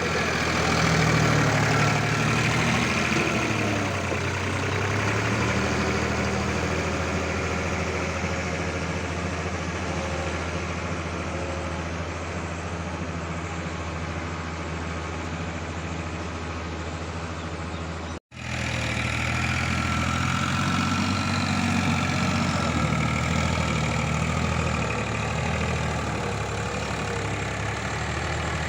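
Escort tractor's diesel engine running steadily, with a sudden split-second break about 18 seconds in before it carries on.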